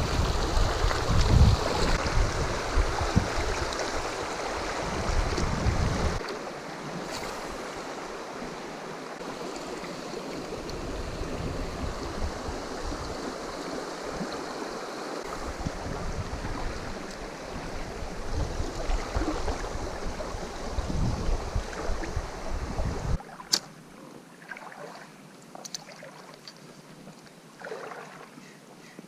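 Water running over a shallow river riffle, with low rumbling gusts of wind on the microphone that stop about 23 seconds in. A single sharp click follows.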